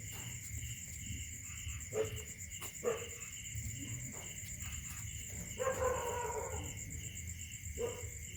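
Puppies whining and yelping in short cries, with a longer whine about six seconds in, over a steady pulsing chirp of insects.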